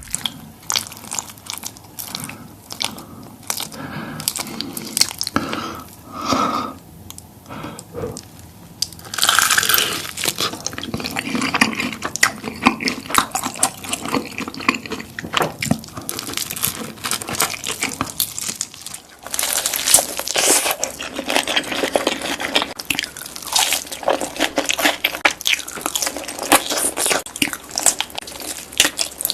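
Close-miked eating of crispy fried chicken: crisp bites and chewing with many sharp crunches. About nineteen seconds in the sound changes, as at an edit, and the crunching becomes denser and louder.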